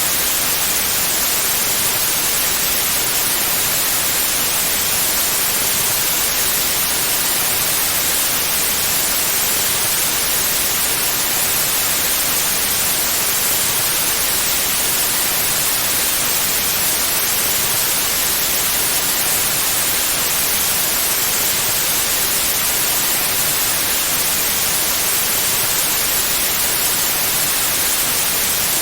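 Steady, unchanging white noise: an even hiss with no pauses or changes, brightest in the high frequencies.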